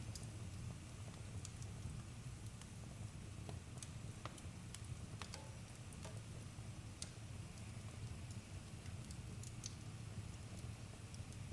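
Wood campfire crackling: scattered sharp pops and snaps, a few close together, over a low steady rumble of the burning fire.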